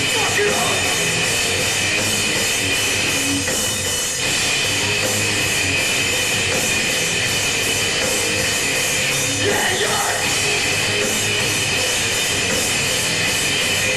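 Heavy metal band playing live, loud and dense, with the drum kit driving a steady beat under the amplified instruments; the level dips briefly about four seconds in.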